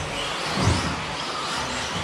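Several 1/10 scale electric RC buggies racing on an astroturf track, their motors whining up and down over a steady rush of noise. A low thud comes about half a second in.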